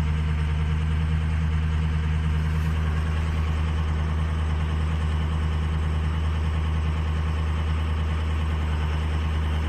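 V8 turbo-diesel truck engine idling steadily, with no change in speed, during a scan-tool boost test. Several cylinders (2, 7 and 4) are showing weak contribution on the scan tool.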